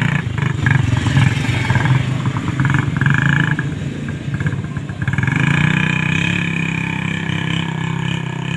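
A motor vehicle engine running steadily and loudly, with a quick rattling pulse about three seconds in.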